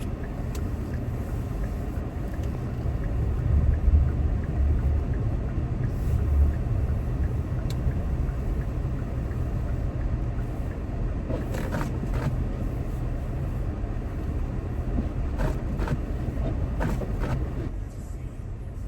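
Car driving on snowy roads, heard from inside the cabin: a steady low rumble of engine and tyres, with a few brief faint knocks or scrapes partway through.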